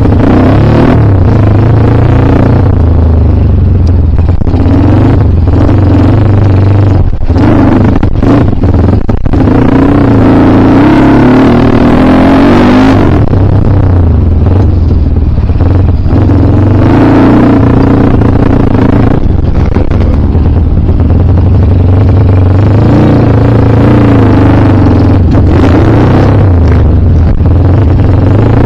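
Kawasaki KLX dirt bike's single-cylinder engine, loud and close, revving up and dropping back repeatedly under changing throttle, with short throttle lifts about a quarter and halfway through.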